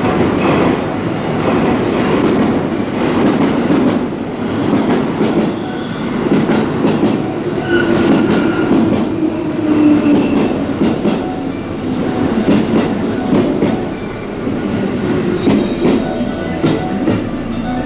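Electric commuter train pulling into the platform, its wheels clacking over the rail joints under a steady rumble. There are brief squealing tones about halfway through.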